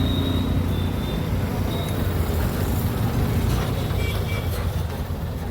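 Steady low rumble of a motor vehicle engine running amid road traffic.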